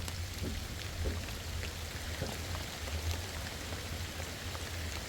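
Steady rain falling, with many scattered drops ticking, over a constant low rumble.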